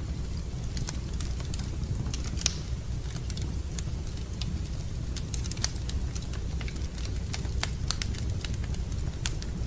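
Wood fire in a fireplace crackling, with irregular sharp pops and snaps a few times a second over a steady low rumble.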